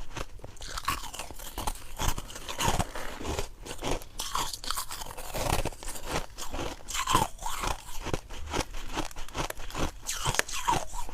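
White ice being bitten and chewed close to the microphone: rapid, irregular crunching that goes on without a break.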